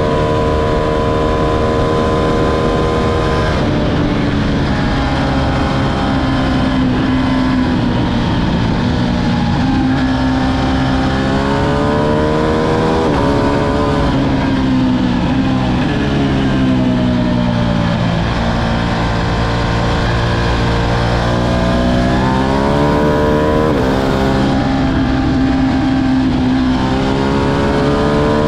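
Ducati Streetfighter V2's 955 cc L-twin engine under way, its pitch climbing as it accelerates and dropping sharply at each shift, then sagging as the bike slows, several times over, with wind rush throughout.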